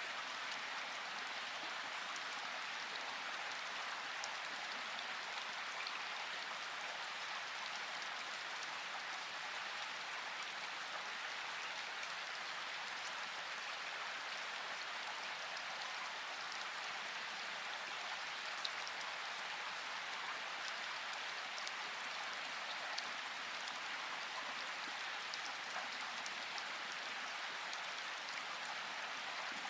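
Steady rain falling in a forest: an even, constant hiss with scattered individual drops ticking through it, a few of them standing out louder.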